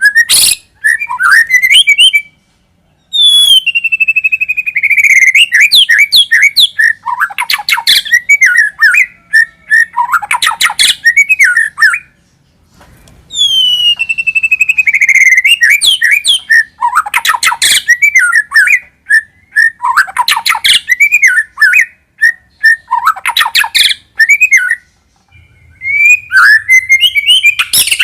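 White-rumped shama (murai batu) singing: loud bouts of clear whistles and rapid chattering, clicking notes, each bout opening with a long falling whistle, with short pauses between bouts about every ten seconds.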